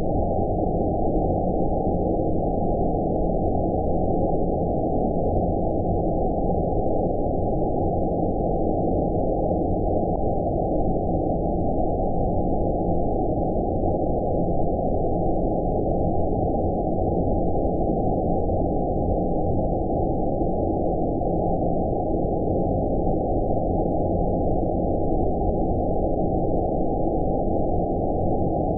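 Steady, deep rumbling noise with all its energy below about 1 kHz and no change in level: a low-passed 'outer space' white-noise track for sleep.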